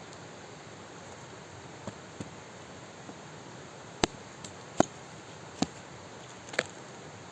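Steady hiss with about six short, sharp clicks or knocks at irregular intervals, most of them in the second half.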